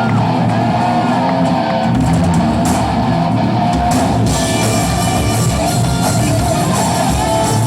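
Live rock band starting a song: electric guitar first, then bass and drums come in about two seconds in, and the full band with cymbals from about four seconds in.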